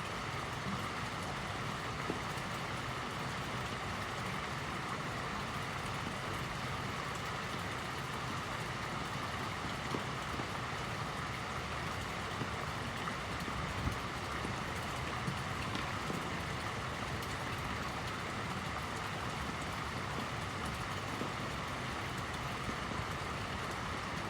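Fountain water splashing and falling steadily into a pond, with a few faint drips and ticks.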